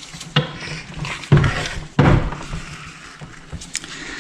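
Metal tools and engine parts being handled on a workbench: three clunks about a second apart, with some scraping and rubbing between them.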